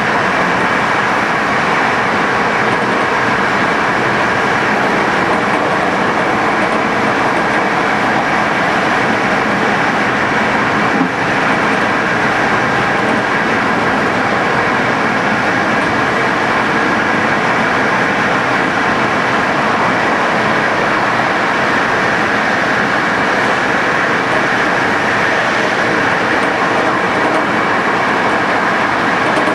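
Passenger train running steadily along the line: an even, loud rush of wheel-on-rail noise with a faint steady whine over it.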